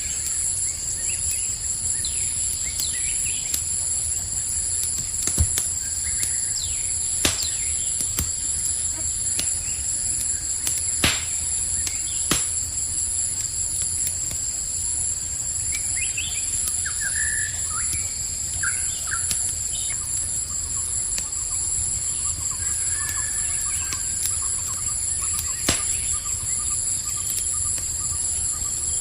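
Campfire crackling, with a low steady rumble and sharp pops every few seconds, over a steady high chorus of crickets. A few short bird chirps come about midway.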